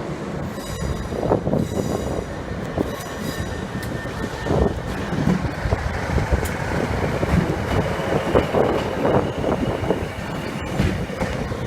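A train moving through the station: a rumble and clatter over the rails, with high wheel squeal clearest in the first few seconds.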